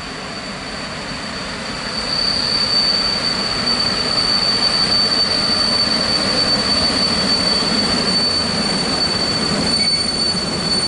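A PKP EP07 electric locomotive and its Intercity passenger coaches roll into the station and past at slow speed, louder from about two seconds in. A steady high-pitched squeal runs over the rumble as the train slows to stop.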